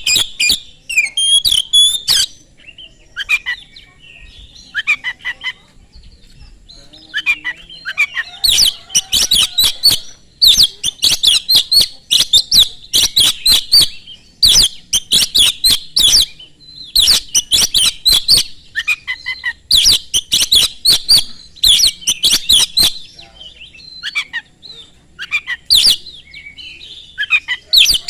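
Oriental magpie-robin (kacer) singing fast and loud, in rapid bursts of notes about a second long with short pauses between them. The song is sparse and quieter at first, then turns dense and loud about eight seconds in.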